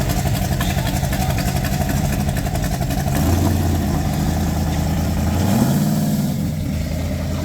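Car engine running at low revs, with a short rise in engine speed about five and a half seconds in before it settles back.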